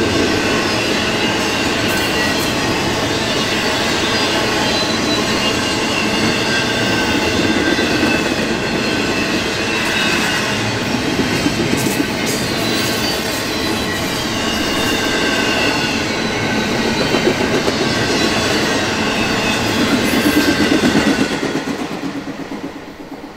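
Double-stack intermodal freight train rolling past: steady wheel-on-rail noise with faint wavering squeals from the wheels. The sound falls away quickly near the end as the last car passes.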